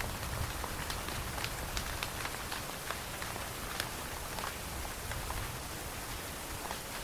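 Steady rain falling, an even hiss with many individual drops clicking sharply close by, over a low rumble.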